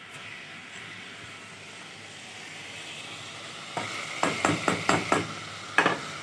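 Chicken pieces frying in hot oil in a pan with a steady sizzle. Nearly four seconds in come half a dozen quick sharp knocks and scrapes as crushed garlic is scraped off a plate into the pan.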